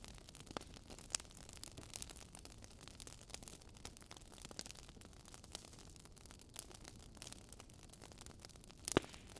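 Wood fire crackling: a faint hiss with irregular small snaps and pops, and one louder pop near the end.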